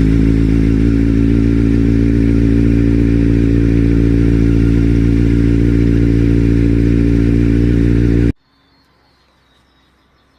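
Motorcycle engine idling steadily, then stopping abruptly about eight seconds in, leaving only faint background.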